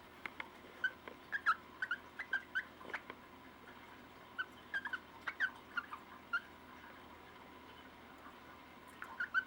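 A cockatiel giving a rapid series of short, soft chirps, with a few faint clicks. The chirps cluster in the first six seconds and stop, then start again near the end.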